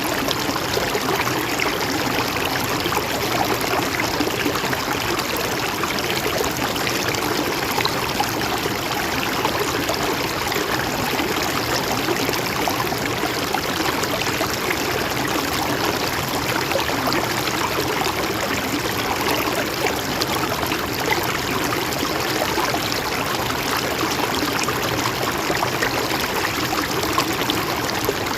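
Mountain stream flowing and trickling over rocks, a steady, unchanging rush of water.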